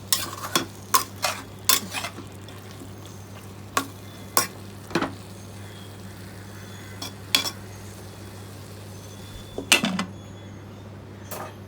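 A utensil stirring and scraping chicken in masala inside a pressure cooker, with irregular clinks against the pot, busiest in the first two seconds and loudest near the end, over a low sizzle of frying.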